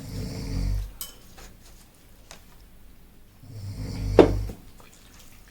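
Utensils clicking and clinking against dishes during a meal, with two low rumbles about four seconds apart and a sharper clink in the second one.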